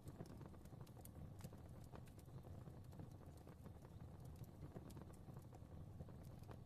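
Faint fireplace fire crackling: irregular small pops and snaps, several a second, over a low steady rumble of burning.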